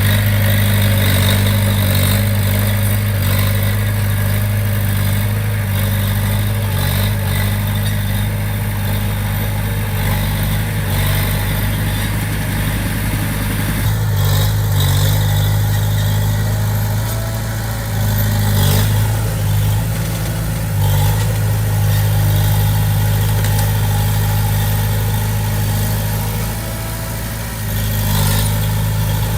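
Komatsu D20P bulldozer's diesel engine running steadily, with scattered clanks throughout and a shift in its sound about halfway through.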